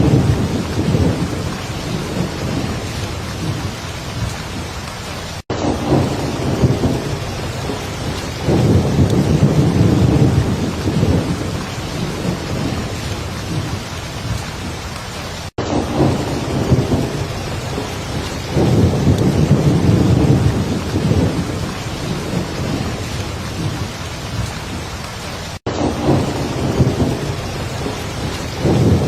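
Heavy rain falling steadily, with rolling thunder rumbling low again and again underneath. The sound drops out for an instant about every ten seconds, like the seam of a looped recording.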